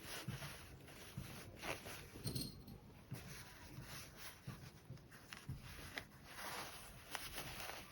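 Quiet handling sounds of sewing work: fabric rustling, with scattered soft taps and light clicks.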